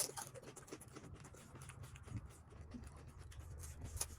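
Faint eating and handling sounds of pani puri: a sharp click at the start, then scattered soft clicks and scratches over a steady low hum.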